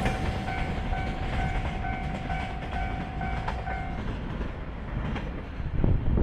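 A freight train of container flatcars rolls away with a low rumble and clickety-clack over the rail joints, while a level crossing's electronic warning bell rings about twice a second. The bell stops about four seconds in. Wind gusts hit the microphone near the end.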